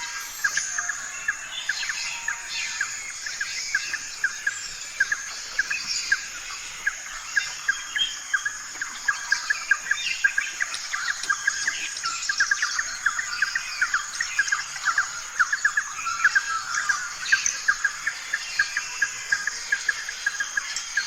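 Many small birds chirping in a busy, continuous chorus of quick, short chirps.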